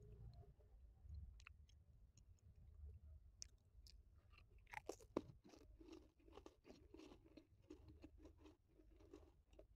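Faint crunchy Marie biscuit being bitten with a few sharp snaps about five seconds in, then chewed with a soft crunch at about three chews a second.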